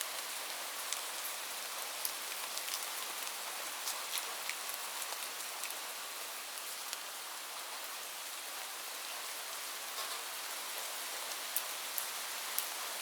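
Steady rainfall, an even hiss with many separate drops ticking sharply on a hard surface.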